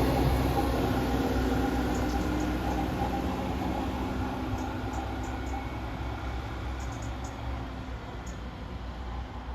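A train running, a low rumble with a steady hum, growing steadily fainter.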